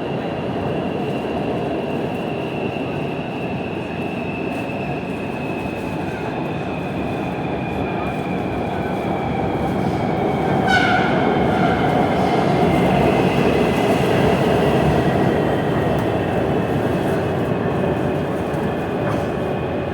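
Metro train running between stations, heard from inside the carriage: a steady rumble of wheels on track with a faint high whine that slowly falls in pitch. A brief high squeal comes about halfway through, and the rumble then grows a little louder.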